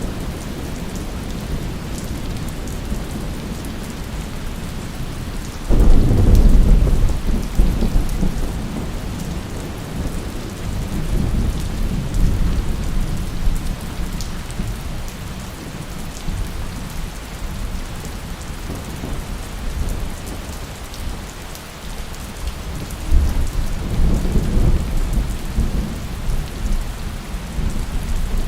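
Steady rain with two rolls of thunder. The first breaks suddenly about a fifth of the way in and rumbles away over several seconds. The second, weaker one comes near the end.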